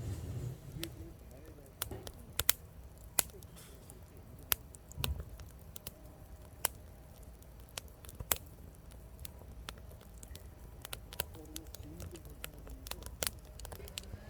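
Firewood burning, crackling with sharp, irregular pops, a few of them loud, over a faint low rumble of the fire.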